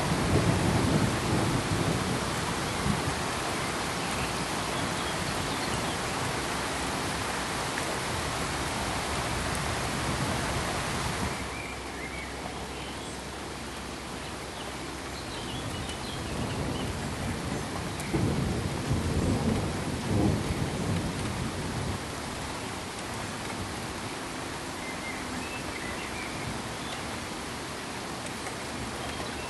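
Steady rain with low rolling thunder. About eleven seconds in the rain hiss cuts off abruptly to a quieter, softer hiss, with faint high chirps and further rumbles of thunder.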